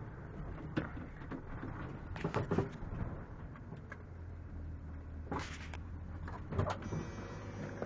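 1986 Ford F-150's 300 inline-six engine idling with a low steady hum, with a few scattered knocks and clicks over it.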